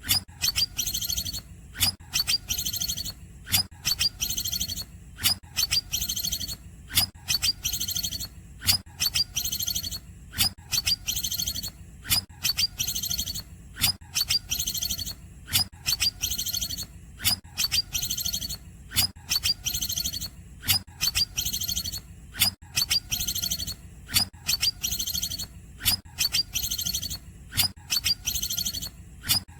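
Green leafbird (cucak ijo) singing: high, sharp chirping phrases with clicking notes, repeated at an even pace about once a second.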